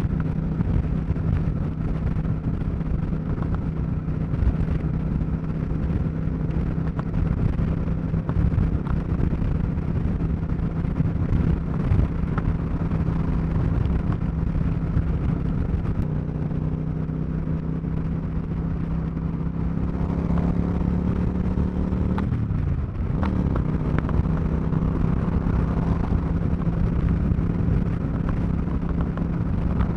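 Suzuki Marauder cruiser motorcycle's engine running at a steady highway speed, with wind rush over the microphone. The revs creep up slowly, dip sharply about two-thirds of the way through, then pick up again and hold steady.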